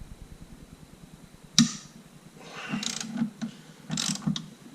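Socket ratchet clicking in two short runs, after a sharp knock about a second and a half in.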